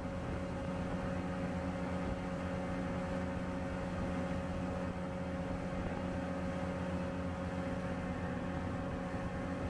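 Boat engine running at a steady speed, a constant even drone with no change in pitch.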